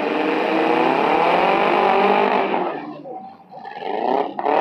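Demolition derby car engine revving hard, its pitch climbing for about two seconds, then dropping off about three seconds in and revving up again near the end.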